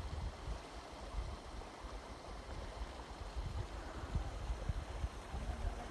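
Outdoor ambience: an irregular, gusting low rumble over a faint even hiss.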